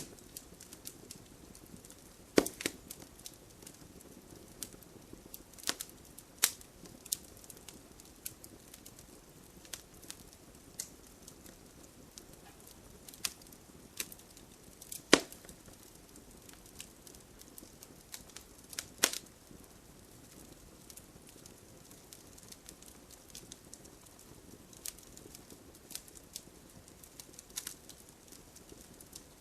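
Wood fire crackling, with irregular sharp pops and snaps, the loudest about fifteen seconds in, over a low steady hiss of the flames.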